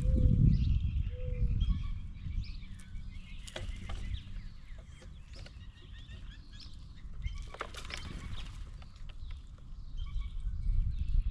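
Birds at a peanut feeding table: a low fluttering buffet close to the microphone at the start, then scattered sharp taps and clicks, with faint chirping throughout.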